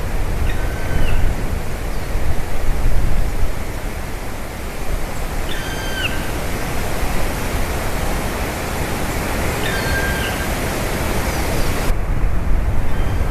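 Black woodpecker giving single drawn-out, plaintive calls, each about half a second long, repeated every four to five seconds, over a loud steady rushing noise.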